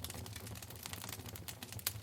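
Wood fire in a fireplace crackling: irregular sharp pops and snaps over a low steady rumble of the flames, with one louder snap near the end.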